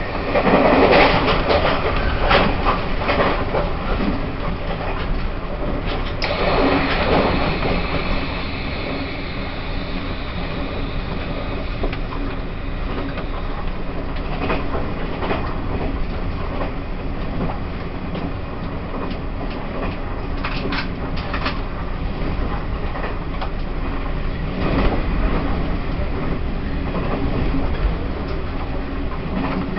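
Taiwan Railways E1000 push-pull Tze-Chiang express running, heard inside a passenger car: a steady rumble of wheels on rail with scattered clicks.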